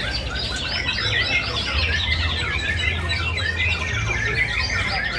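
Many caged songbirds singing at once, a dense chorus of overlapping chirps and whistles, with a steady low rumble underneath.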